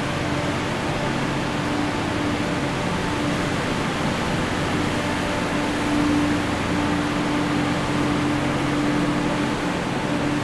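Steady droning hum of a passenger train alongside the platform: an even rumbling noise with a constant tone running through it.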